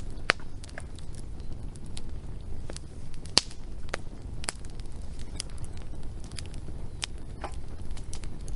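Wood fire crackling: irregular sharp pops and snaps over a low steady rumble of burning, the loudest pop about three and a half seconds in.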